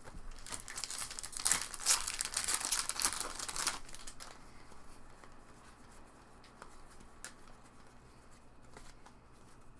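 A foil trading-card pack wrapper being torn open and crinkled for about the first four seconds, then only faint rustling and a few light clicks.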